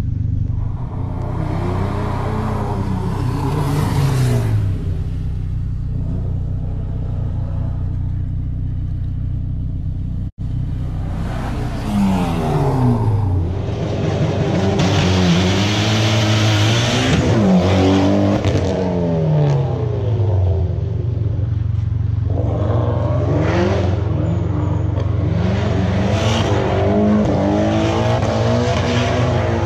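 High-performance all-wheel-drive car engine revving hard, its pitch climbing and dropping again and again as the car is accelerated, shifted and slid on a wet surface. A rushing hiss of tyres and spray on the wet pavement rises in the middle. The sound cuts out for an instant about ten seconds in.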